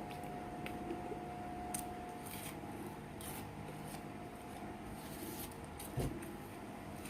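Quiet eating sounds: faint chewing and small clicks and crackles from food and mouth over a steady background hum, with one soft thump about six seconds in.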